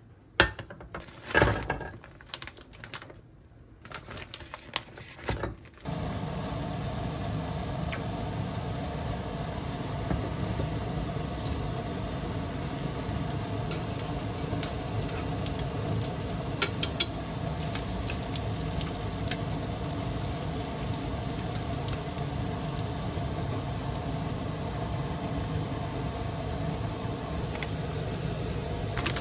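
A few knocks and clatters of a pan, then food frying in hot oil in a small square pan, starting abruptly about six seconds in and going on as a steady sizzle. A few sharp clicks of chopsticks against a pot come midway.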